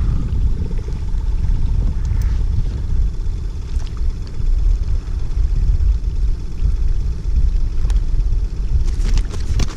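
Wind buffeting the microphone, a loud, low, uneven rumble, with a few sharp clicks near the end.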